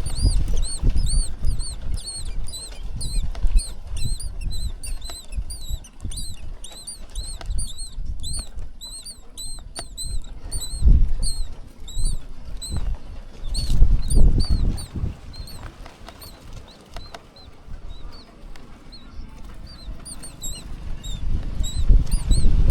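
Nestling birds cheeping to beg for food: rapid, high-pitched peeps, several a second, in runs with short lulls. Bouts of low rumbling sit underneath.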